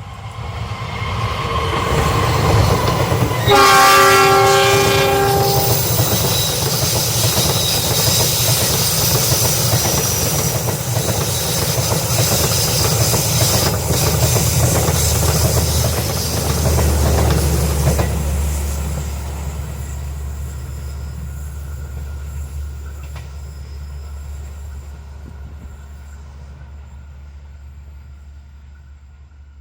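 A passing passenger train. The locomotive sounds one long horn blast about three and a half seconds in. The wheels then rumble and clack over the rails as the cars go by, and the noise gradually fades in the second half.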